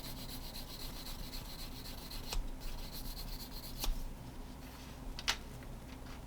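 Rapid, fine scraping strokes of a hand tool on a hard small part, stopping a little under four seconds in, with three sharp clicks about two and a half, four and five and a half seconds in.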